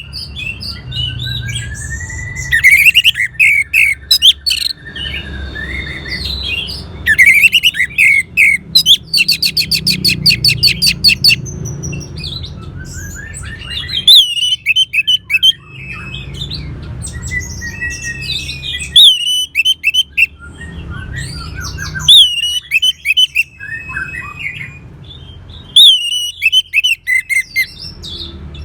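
Orange-headed thrush singing loud, varied phrases of quick whistles, chirps and fast trills, in bursts a second or two apart. A low steady hum runs underneath.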